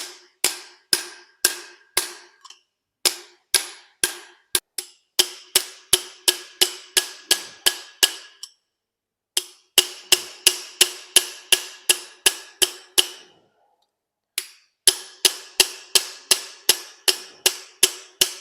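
Hammer blows driving a swaging tool into the softened end of a 22 mm copper pipe, expanding it into a socket; each blow rings briefly like struck metal. The blows come in steady runs, about two to three a second, with two short pauses, around the middle and two thirds of the way through.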